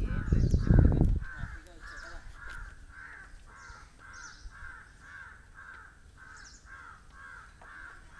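A bird repeating a short call about twice a second, steadily, with scattered higher chirps from other small birds. A loud low rumbling noise fills the first second, then fades.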